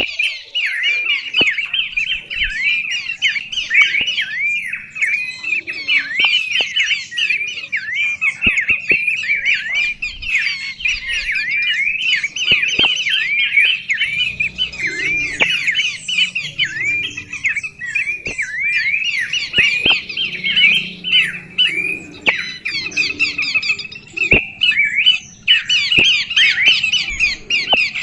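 A bird singing a fast, unbroken stream of short, curved chirping notes that rise and fall in quick succession, with hardly a pause.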